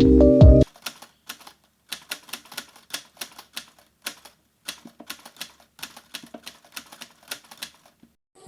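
Music cuts off in the first second. Then come light, irregular clicks of typing, about three or four a second, which stop just before the end.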